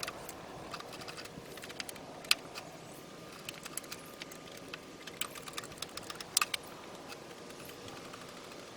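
Scattered light clicks and clinks of hand tools and parts being handled during engine-removal work, irregular rather than rhythmic, with the sharpest knocks about two seconds in and again past six seconds.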